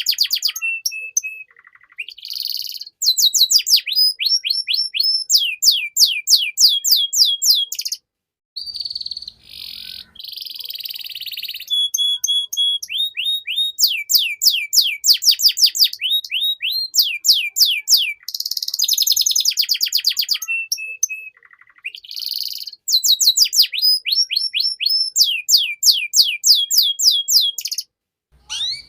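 Domestic canary singing a long song: fast trills of repeated high down-sweeping notes, buzzy rolls and a few held whistled notes, broken by a few short pauses.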